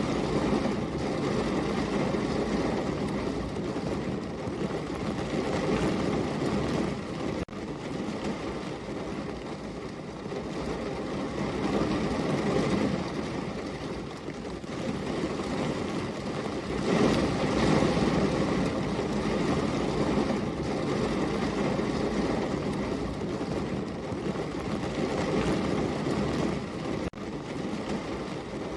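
Heavy rain falling steadily, a dense, even rush of noise that swells and eases, with two very brief dips.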